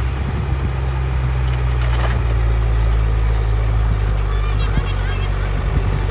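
Heavy diesel earthmoving machinery running steadily with a deep, even engine hum. A few short high chirps come about two-thirds of the way in.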